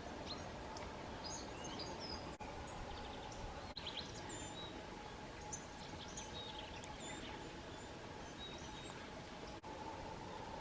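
Wild birds chirping and calling faintly in scattered short notes over a steady outdoor background hiss.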